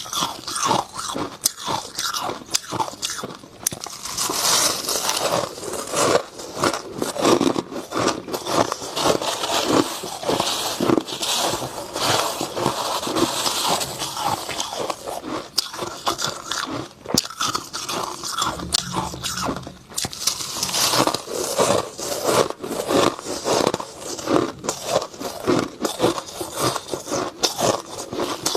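Dry freezer frost being bitten and chewed close to the microphone, a dense run of crisp crunches with little pause.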